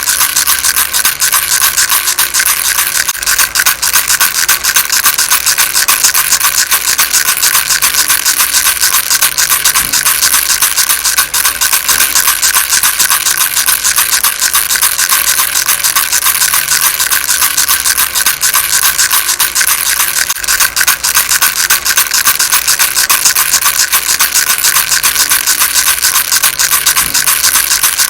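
Baby rattle shaken continuously, a fast, dense rattle that keeps on without a break.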